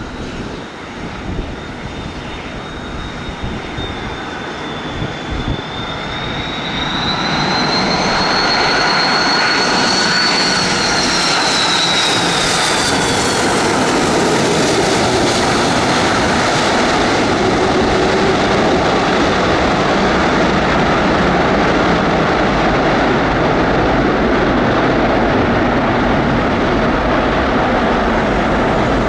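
Jet airliner engines passing close by: a high whine rises and then falls in pitch as the aircraft goes past, and a loud steady roar sets in about a quarter of the way through and carries on.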